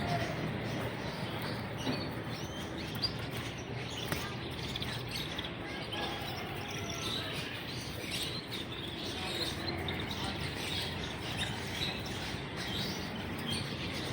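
Many small caged songbirds chirping, short scattered calls over a steady background of market noise.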